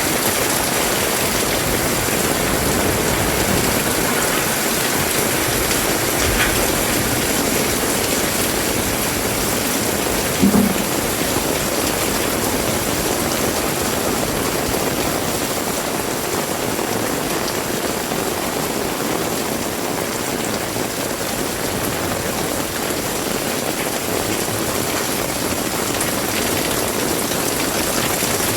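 Heavy rain falling steadily, an even hiss with no let-up. About ten seconds in there is a brief low thud.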